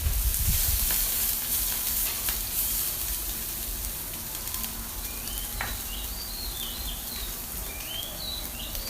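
Slices of three-layer pork belly sizzling on a hot 2-in-1 grill-and-hotpot pan, loudest in the first few seconds and then easing off. In the second half, a run of short high chirps sounds over the sizzle.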